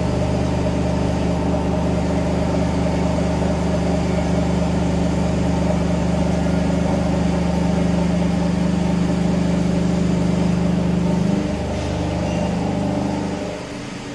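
Vertical machining centre face milling with coolant on: the spindle and 50 mm face mill run at a steady pitch over a hiss of cutting and coolant as the tool feeds along X, taking a 0.5 mm cut. About eleven seconds in the sound drops and changes, then it fades out near the end.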